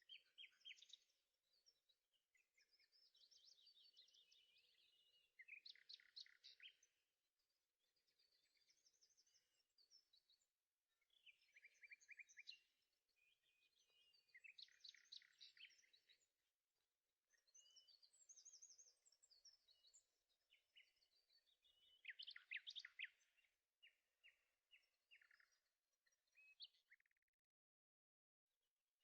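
Faint birdsong: phrases of rapid high chirps and trills, one after another with short pauses between them.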